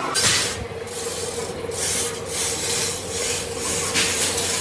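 Repeated rasping strokes of hand abrasive work on a metal workpiece, about two a second, over a steady machine hum.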